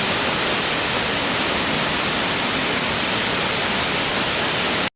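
Natural waterfall: a steady rush of falling water, cutting off suddenly near the end.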